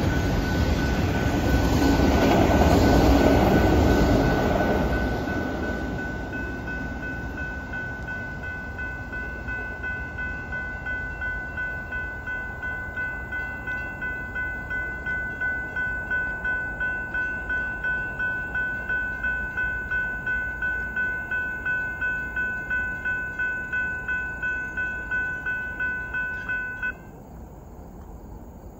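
Freight train cars of a Canadian Pacific manifest rumbling past for the first few seconds, then fading away as the train clears. A grade-crossing warning bell keeps ringing about twice a second and cuts off suddenly near the end.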